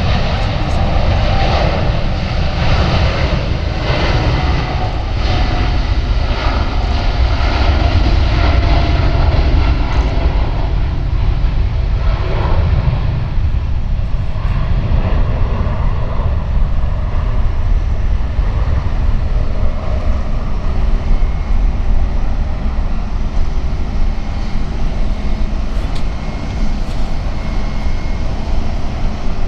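Jet airliner's engines at takeoff power, a loud continuous rumble that eases somewhat about halfway through as the aircraft climbs away.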